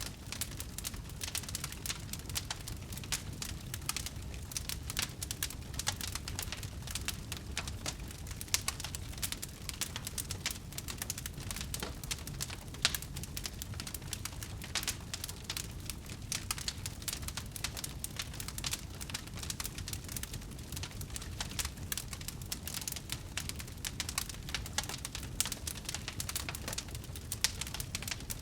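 Campfire of burning wood crackling steadily: many small irregular pops and snaps over a low rumble of flames, with a few louder pops scattered through.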